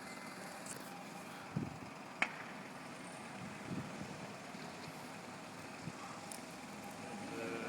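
Steady outdoor background noise with a few faint knocks and one short sharp crack about two seconds in; near the end a vehicle's engine comes in.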